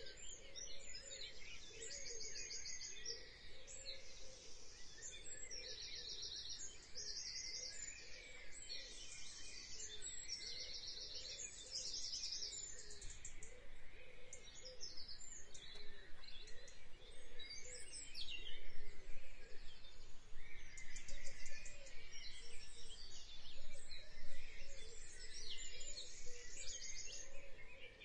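Birds chirping, with many short, fast, high trills repeated one after another over a steady background hiss.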